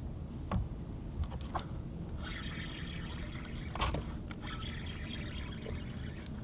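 Water trickling and splashing, with a few sharp knocks, the loudest near the middle.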